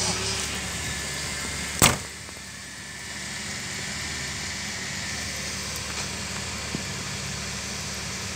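1987 Ford Thunderbird Turbo Coupe's turbocharged 2.3-litre four-cylinder idling steadily, with one sharp knock about two seconds in.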